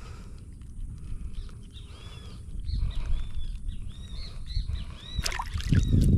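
Birds chirping in short, arching notes, over and over, above a steady low rumble. Near the end there are a few sharp clicks, then a louder rumbling burst.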